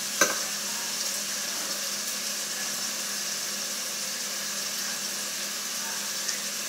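Food frying in avocado oil in an enamelled pot on a gas stove: a steady, even sizzle. One light knock sounds just after the start.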